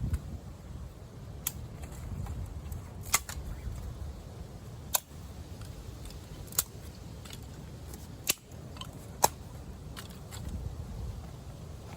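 About five sharp, isolated clicks or knocks, spaced a second or two apart, over a low rumble of wind on the microphone.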